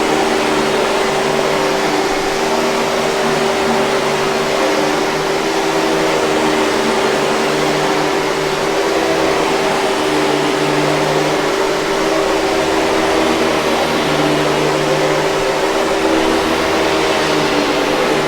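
Hoover 5000 Series canister vacuum cleaner running steadily: a constant rush of air with a steady motor whine over it.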